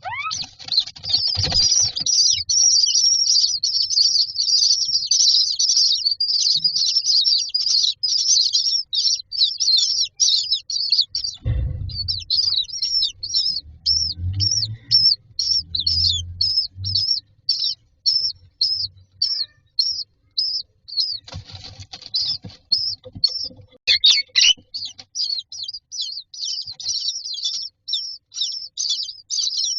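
Common myna nestlings giving begging calls. A dense, rapid, high-pitched chorus breaks off about a third of the way in for low bumps and knocks in the nest, then goes on as a rhythm of repeated calls, about two a second.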